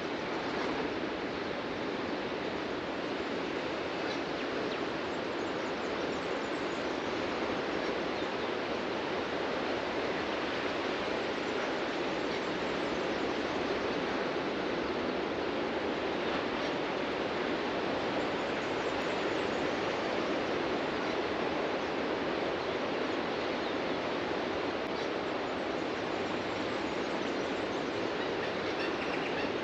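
Ocean surf on a beach: a continuous wash of breaking waves that swells and eases slowly.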